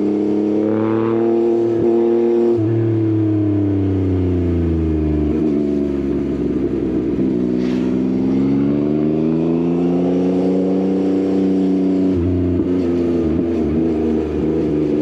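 Yamaha XSR900's inline-three engine through an Akrapovič exhaust, under way. The revs climb, then fall away for several seconds as the bike slows, climb again under throttle, and drop sharply about twelve seconds in.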